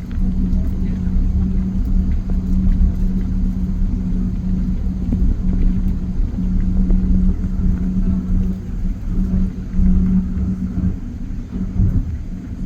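Cabin noise of a Boeing 777-200 on the ground: a steady low rumble with a constant droning hum.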